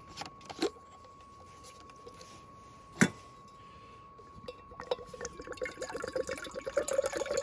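Water being poured into a camp cooking pot, a dense stream of splashing that begins about four and a half seconds in, after a single sharp metal clink about three seconds in.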